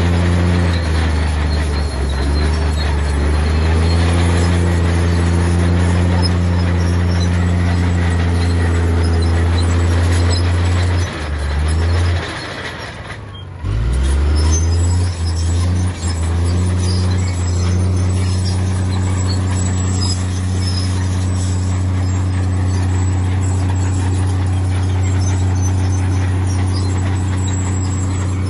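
Heavy earthmoving diesel engine running steadily, a loud low drone. About eleven seconds in the note drops away, nearly stops for a moment, then picks straight back up and runs on as before.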